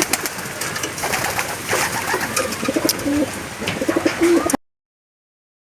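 Racing pigeons cooing in a loft, a few short low calls among scattered clicks and rustling. The sound cuts off suddenly about four and a half seconds in.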